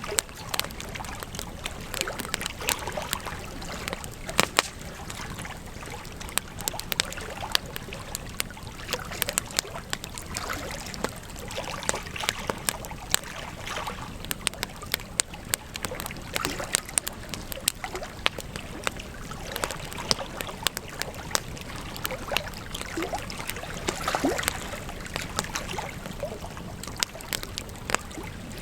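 Wood campfire burning, crackling with many sharp, irregular pops over a steady rush of flame.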